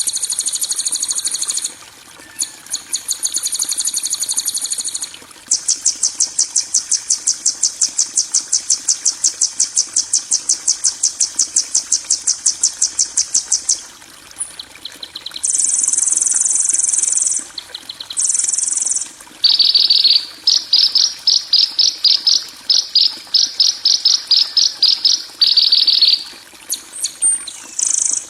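Masteran recording of harsh, high-pitched bird and insect-like calls used to tutor songbirds. It runs as a string of separate phrases: dense buzzy trills, then a long fast-pulsed trill of about seven pulses a second, then short steady buzzes, and from about two-thirds of the way through, a lower run of rapid chattering notes.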